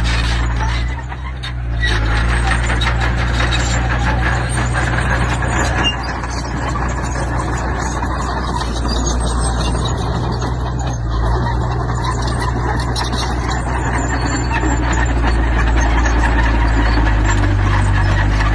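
Heavy diesel earthmoving machinery running steadily under load, with a dense clatter of stone and metal throughout; the sound eases briefly about a second in.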